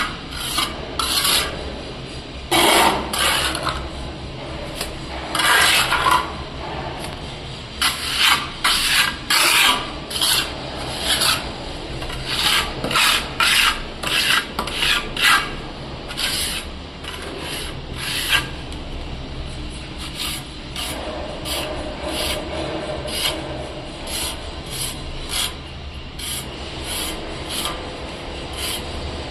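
Repeated rasping, scraping strokes against a hard surface, coming irregularly about one to two a second, with a quieter stretch about two-thirds of the way through.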